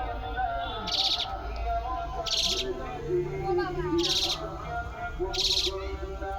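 A bird's short, high-pitched raspy call repeated at a steady pace, about once every one and a half seconds, over continuous wavering tones.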